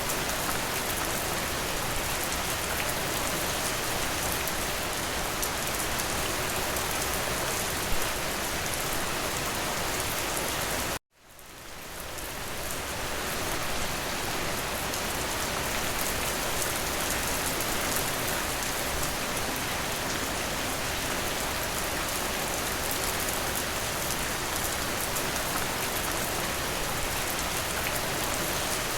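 Steady rain falling, a dense even patter. About eleven seconds in it cuts out for an instant, then fades back up over a couple of seconds.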